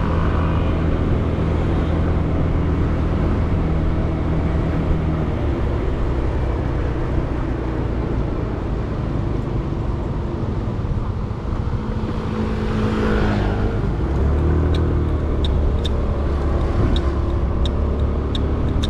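Motorcycle engine running under way, heard from a helmet-mounted camera behind a foam wind sponge, with muffled wind and road noise; the engine note shifts about five seconds in and again past the middle. A whoosh swells and fades a little past the middle, and a series of light ticks comes near the end.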